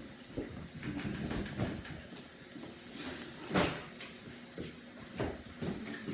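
A few scattered knocks and rustles of objects being handled, the sharpest knock about three and a half seconds in.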